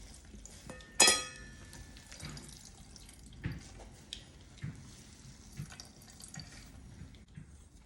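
Water squeezed out of salted, chopped napa cabbage in cheesecloth, dripping and trickling into a bowl in irregular drops. There is a sharp ringing clink about a second in.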